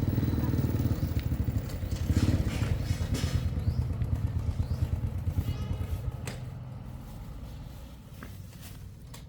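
A motor engine running with an even low pulsing for about six seconds, then fading away as it moves off or winds down.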